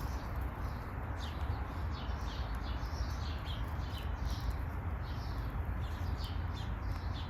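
Birds chirping: a quick run of short, high, falling chirps several times a second, over a steady low rumble.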